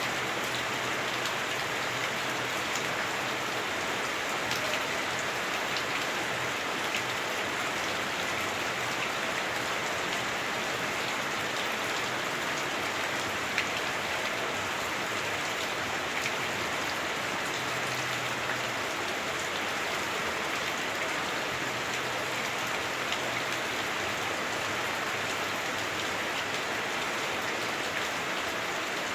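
Heavy rain drumming on a house roof, heard from inside: a steady, dense hiss with scattered sharper drop ticks and one slightly louder tick near the middle.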